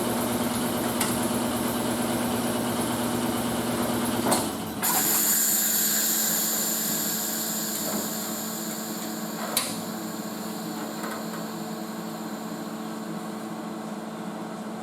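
A power tool or shop machine running steadily with a low hum, a knock about four seconds in; then the low hum drops away and a steady high whine carries on, slowly fading, with one more click near the middle.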